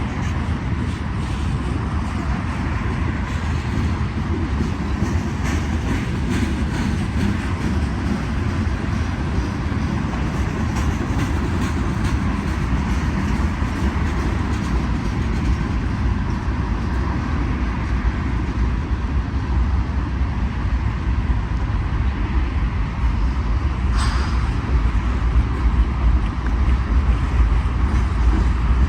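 Freight train cars rolling past on the mainline: a steady, loud rumble of steel wheels on rail, with a faint thin steady squeal over it and a single sharp click about three quarters of the way through. The rumble grows a little louder near the end.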